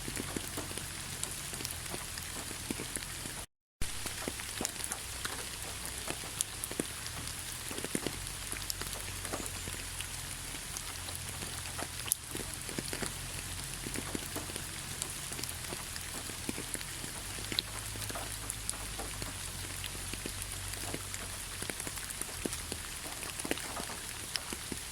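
Heavy rain falling: a steady hiss dotted with many individual drop ticks. The sound cuts out to silence for a split second about three and a half seconds in.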